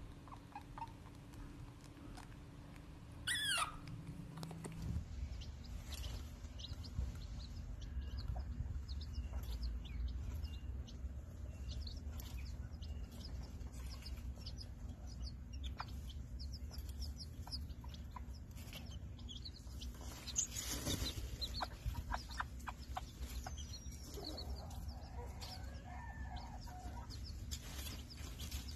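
A baby otter gives one short, high, wavering squeal while bottle-feeding; then a hen murmurs and clucks while her chicks peep continuously around a feed dish, with a few sharp pecks and knocks against the dish.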